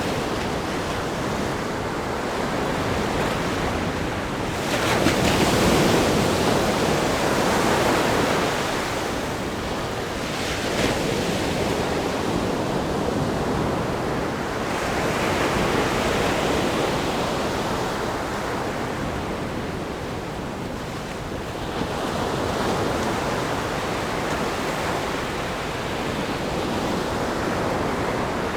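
Ocean waves breaking on a rock groin and washing onto a sandy beach, a continuous surf wash that swells and eases, with the biggest crash about five seconds in and smaller surges every few seconds after.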